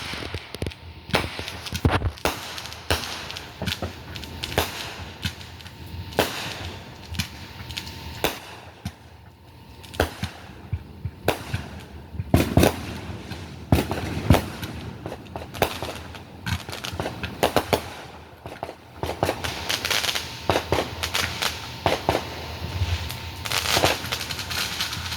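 Fireworks going off: a long run of irregular sharp bangs and pops, with denser crackling near the end.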